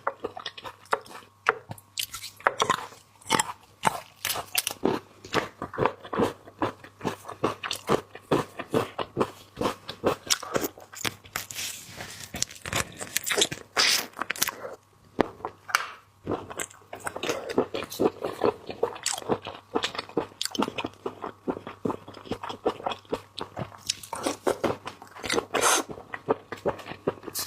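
Close-miked mukbang eating of a large black tiger prawn: biting, crunching and chewing in many quick, irregular crackles.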